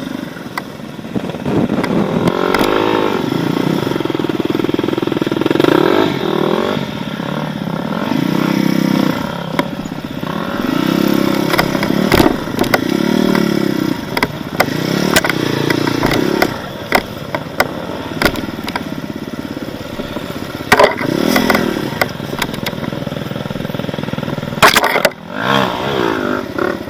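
Off-road motorcycle engine revving up and down over and over as it is ridden through rough terrain, with scattered clattering knocks.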